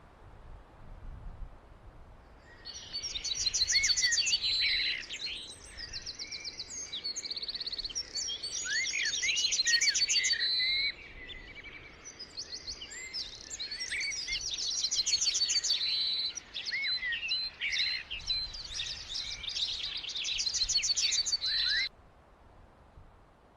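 Songbirds chirping and trilling, many rapid calls overlapping in a busy chorus that starts a couple of seconds in and cuts off suddenly near the end.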